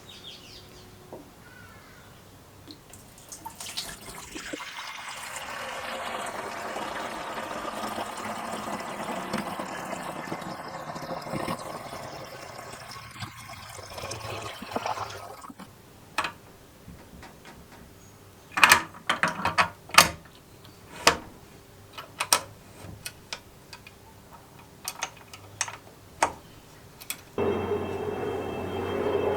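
Water running for about ten seconds, followed by a series of sharp knocks and clicks.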